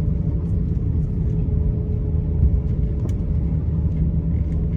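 Steady low rumble with a steady mid-pitched hum inside the cabin of an Airbus A350-900, with a few faint ticks.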